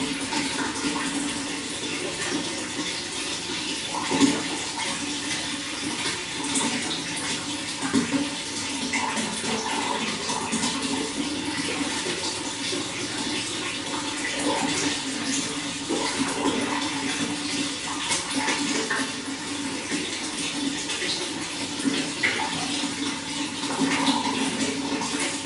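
Running water flowing and splashing continuously, with a steady rushing and many small bubbling splashes.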